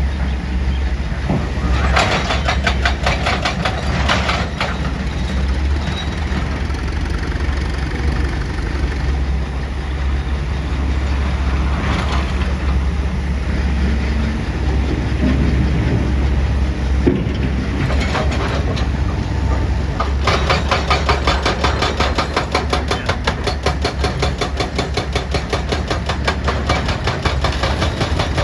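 Excavator's diesel engine running steadily under load while a hydraulic rock breaker hammers rock in fast, even strokes. The hammering comes in short spells about 2 seconds in and again around 12 and 18 seconds, then runs on without a break from about 20 seconds.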